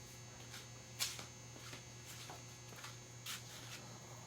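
A few faint metallic clicks and knocks from rear-axle hardware being handled, the clearest about a second in and another near three seconds in, over a steady low hum.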